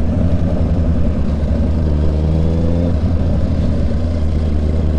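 Honda CB650 inline-four motorcycle engine running under way, with a steady low rumble; the engine note rises and falls briefly about two seconds in.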